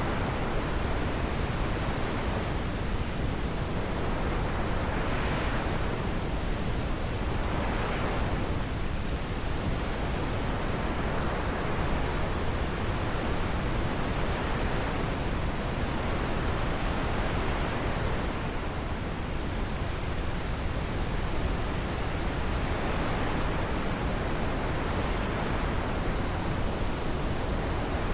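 Wind blowing steadily as a continuous rushing hiss, with gusts swelling and fading every few seconds.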